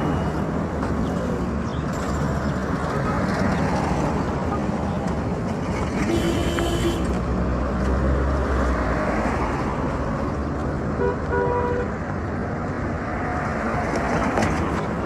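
Road traffic: a steady rumble of vehicles running along a busy road, with short horn toots about six seconds in and again near eleven seconds.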